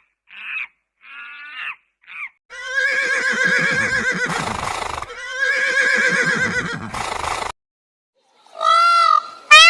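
Horse whinnying twice, each a long quavering neigh of about two and a half seconds, after a few short high-pitched calls at the start. A different animal's call, arching up and down, starts near the end.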